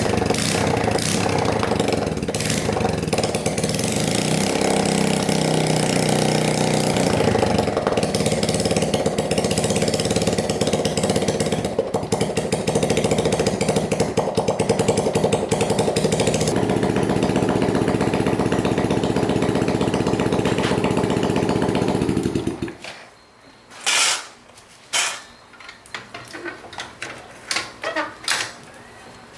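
Four-stroke motorbike engine running with a steady pulsing beat; it changes to a lower, more even note about two-thirds of the way through, then is shut off and stops abruptly. A few sharp metallic clicks and knocks follow.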